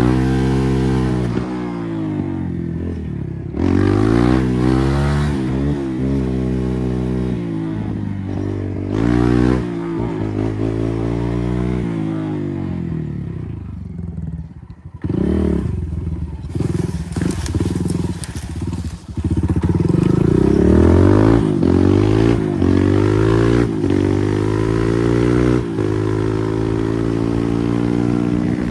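Kawasaki KLX140R F dirt bike's single-cylinder four-stroke engine being ridden hard, revving up and falling back again and again as the throttle opens and closes. The engine note briefly drops away twice around the middle before climbing again.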